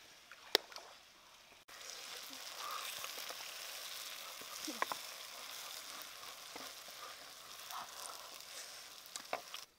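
Frog pieces with chilies and herbs sizzling steadily as they stir-fry in a wok. The sizzling sets in suddenly about two seconds in, after a quieter start with one sharp click, and a few clicks and scrapes of a wooden spatula sound against the pan.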